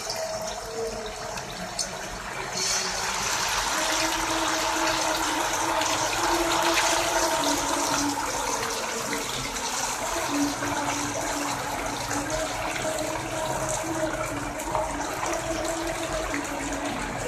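Marinated chicken pieces sizzling as they deep-fry in hot oil in a pan: a loud, steady hiss that swells a little about two to three seconds in.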